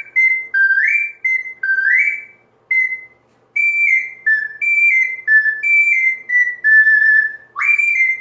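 Soprano C ocarina played in its highest register. It plays short, bright phrases of high notes that scoop up into their first note, and after a pause about three seconds in, a stepwise falling run ending on a held note. Near the end, a new phrase slides up.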